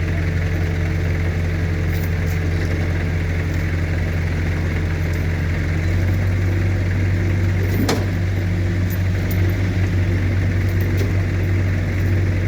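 A heavy vehicle's engine running steadily at low revs; its note lifts slightly about six seconds in. There is a single sharp click near eight seconds.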